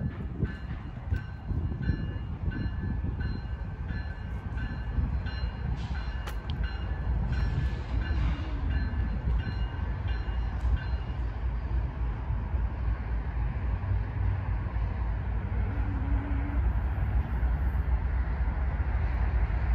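Diesel freight locomotives of a loaded coal train approaching on the main line, a low rumble that slowly grows louder.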